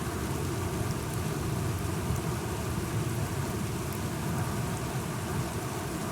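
Steady rain falling, with a continuous low rumble underneath and faint scattered drop ticks.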